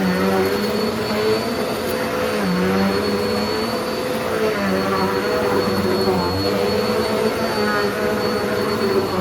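Hoover Pet vacuum cleaner running over a rug, a steady motor whine with its lower pitch dipping and recovering every couple of seconds as it is pushed back and forth.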